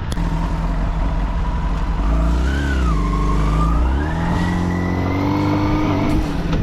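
2005 Yamaha FZ6's inline-four engine accelerating under way. Its pitch climbs, drops at a gear change about two and a half seconds in, climbs again, then holds fairly steady.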